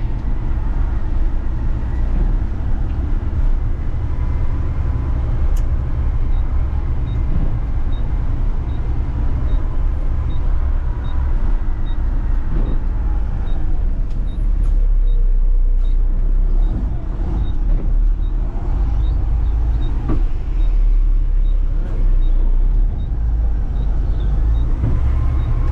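Front-load garbage truck's engine running, a steady low rumble heard from inside the cab as the truck drives, with a faint, regular ticking from about six seconds in.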